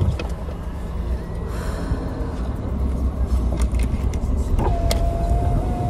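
Car running, heard from inside: a steady low road and engine rumble. Near the end a steady single high tone comes in and holds.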